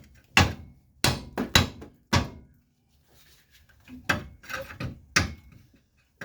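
Hammer blows on a stuck steel part of a car's front suspension: about five sharp strikes, a pause of a second and a half, then four more.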